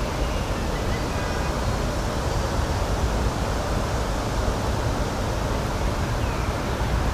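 Steady outdoor rushing noise with a strong low rumble and no distinct events.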